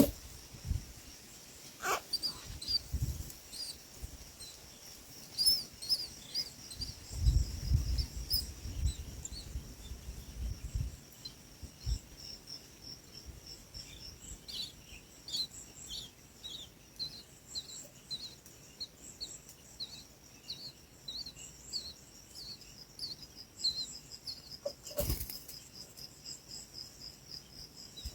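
Small birds chirping in short, high, repeated notes, about two a second through the second half, over a steady high insect drone. A few low rumbles and thumps in the first half, and sharp clicks now and then.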